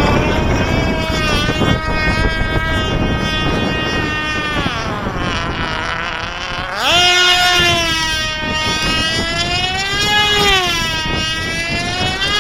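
Small model airplane engine running at a high-pitched whine as the plane circles, its pitch rising and falling as it passes; about seven seconds in the note jumps up and gets louder. Wind buffets the microphone underneath.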